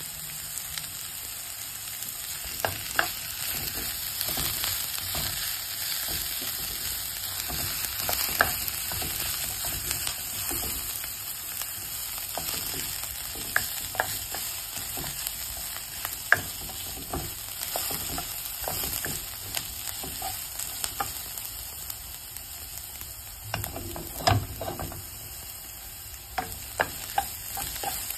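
Sliced onions and chillies sizzling in a little oil in a non-stick wok as they are tempered, stirred with a spatula that scrapes and taps against the pan now and then.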